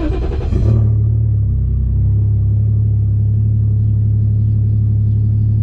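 Toyota 1JZ-GTE VVTi straight-six in a Nissan 240SX firing up with a brief sharp flare, then settling into a steady, even idle with a low drone.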